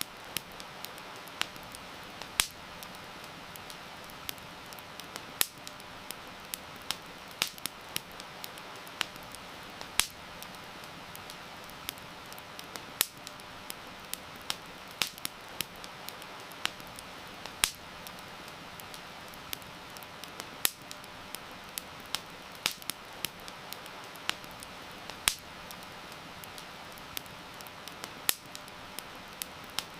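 Wood fire crackling, with sharp irregular pops and snaps one or two a second, over a steady hiss of heavy rain.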